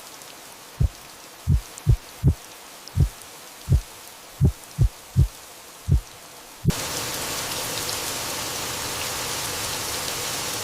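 About ten short, low thuds, unevenly spaced, over faint rain. About two-thirds of the way through, loud steady rain comes in abruptly.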